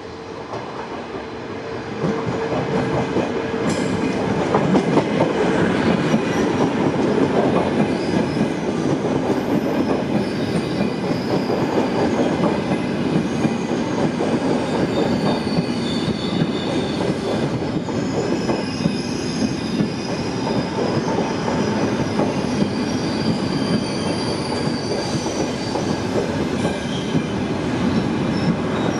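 Trenitalia Frecciargento electric trainset running past close by along the platform, its loudness jumping up about two seconds in as it draws alongside. A steady rumble of wheels on rail, with high thin wheel squeals from about ten seconds in until near the end.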